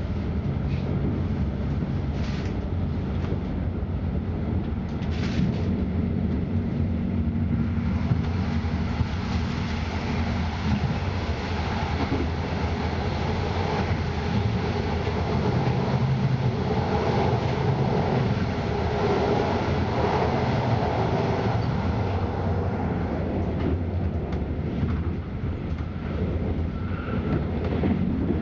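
Passenger train running at speed, heard from inside the carriage: a steady rumble of wheels on the rails with a low hum.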